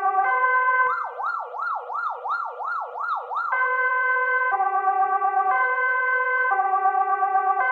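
Police car siren sound effect, electronic, alternating between a high and a low tone about once a second. About a second in, it switches to a fast rising-and-falling yelp, about three sweeps a second. It returns to the two-tone hi-lo pattern about two and a half seconds later.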